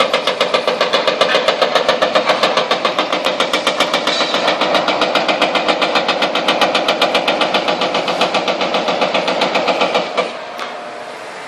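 Hydraulic breaker on a demolition excavator hammering at concrete in a fast, even run of blows, about six a second, with the excavator's engine running under it; the hammering stops suddenly about ten seconds in.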